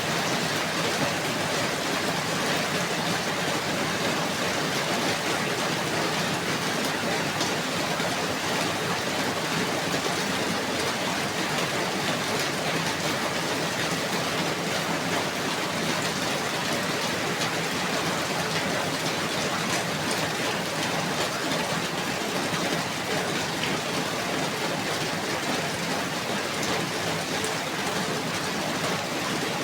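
Steady rainfall, an even hiss of many drops falling on a surface.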